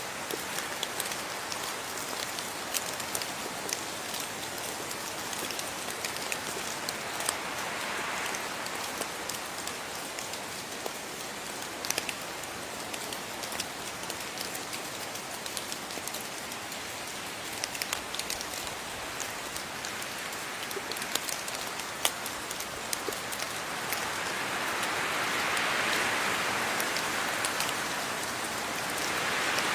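Steady rain falling on a surface, with many distinct drops ticking; the downpour swells louder for a moment about a quarter of the way in and again over the last few seconds.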